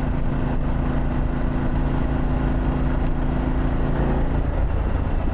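Harley-Davidson Pan America's Revolution Max V-twin running through a Vance & Hines exhaust at a steady cruising speed, heard from a helmet-mounted camera with heavy wind rush on the microphone. The steady engine note changes about four seconds in.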